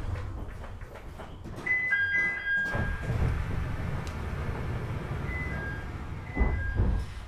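E721-series electric multiple unit running along the line, heard on board: a continuous low rumble of wheels on rail, with heavier thuds about 3 seconds and 6.5 seconds in. Thin, steady high whines come and go twice.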